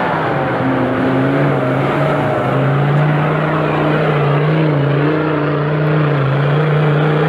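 Off-road vehicle's engine running hard at high, fairly steady revs under load, the pitch wavering slightly up and down. It starts and stops abruptly.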